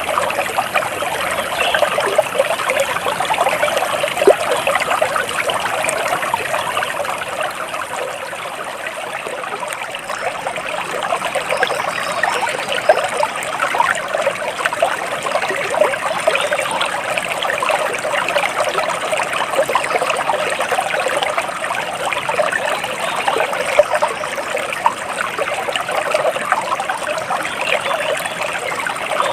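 Water trickling and burbling steadily over stones, a continuous even splashing.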